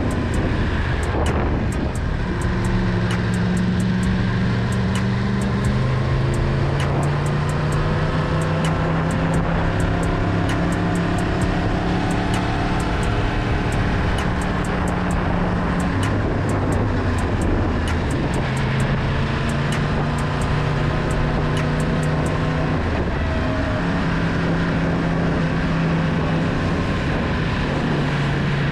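Yamaha MT-10's crossplane inline-four engine running at easy cruising revs. Its note holds one pitch for a few seconds, then steps up or down as the throttle and gears change, over a steady rushing noise.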